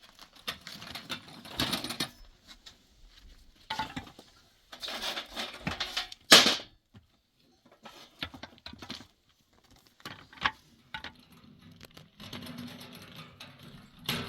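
Irregular rustling, clicks and clatter of things being handled, with one sharp knock about six seconds in.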